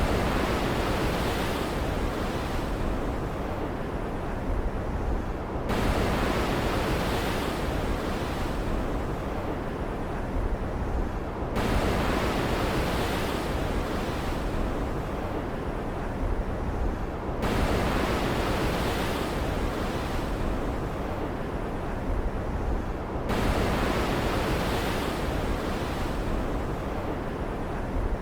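Stormy ocean ambience: steady noise of surf and rain, swelling and easing in surges that reset abruptly about every six seconds, like a short loop repeating.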